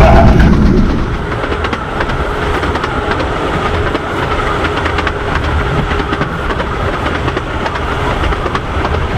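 15-inch gauge miniature railway train running along the track: a steady rumble with a fast, faint clatter of wheels over the rails.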